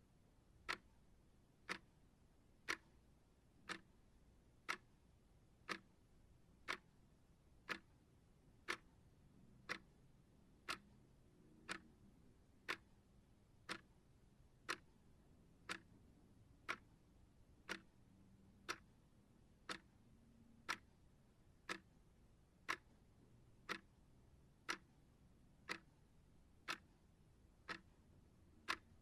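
Steady ticking of a timer track: one short, sharp tick every second, perfectly even.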